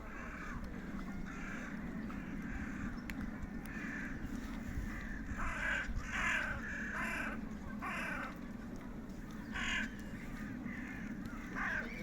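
Crows cawing again and again, the calls coming thickest about halfway through, over a steady low rumble.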